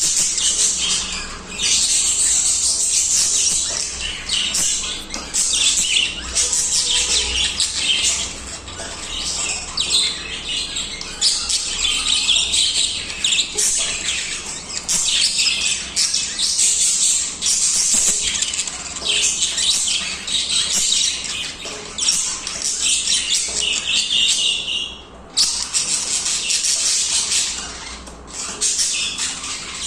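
Pet budgerigars (budgies) singing continuously: a dense, unbroken stream of warbling chatter and chirps, with a brief lull about three-quarters of the way through.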